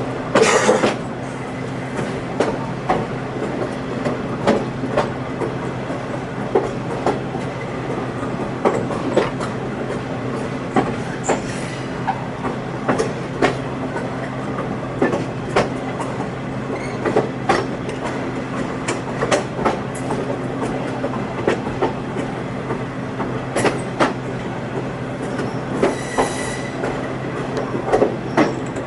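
Passenger train running along the track, heard from aboard: a steady low hum under irregular clacks and knocks from the wheels and running gear, with a couple of brief hissing bursts.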